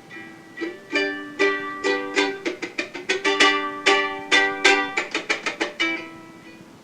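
Music: an acoustic string instrument strummed in a run of quick chords, starting about half a second in, then settling onto a single held note that fades near the end.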